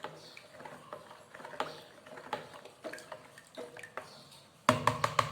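A spoon stirring liquid in a container, giving light scattered clinks and taps, with a louder burst of clattering near the end.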